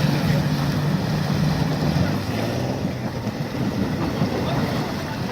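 Thunder rolling: a low, continuous rumble that eases off a little after about two seconds.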